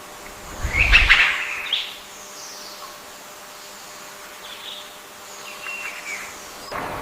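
Bird calls: a loud call about a second in, with a low thump under it, then a few fainter calls near the end.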